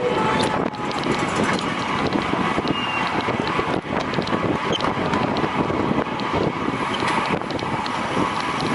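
Steady wind rushing and buffeting over a cyclist's camera microphone at riding speed, with a few faint ticks.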